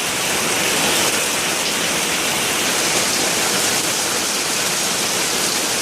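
Heavy downpour: a loud, steady rush of rain, with water pouring off the leaking roof.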